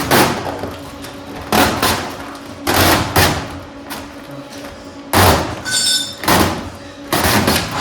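Irregular thumps and knocks, about seven in all, with a short metallic ring after one of them about six seconds in.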